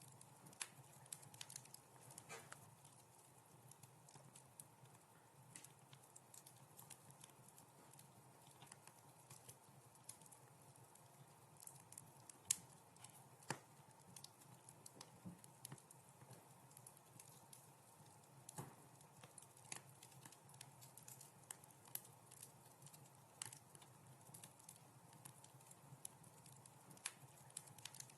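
Wood fire crackling in a fireplace: irregular sharp pops and snaps over a soft, steady low hiss, with one louder snap near the middle.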